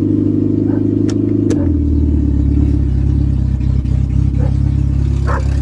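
Engine of an automatic Honda running steadily, its pitch shifting about a second and a half in.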